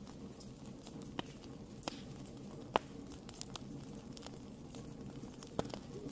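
Wood fire burning in a fireplace: a steady low rush of the flames with irregular sharp crackles and pops, the loudest pop a little before the middle.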